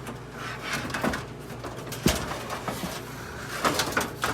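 Clicks, knocks and rattles of the front grille of a 1952 Vornado room air conditioner being worked loose by hand, the sharpest knock about two seconds in and a cluster near the end, over the steady hum of the running unit.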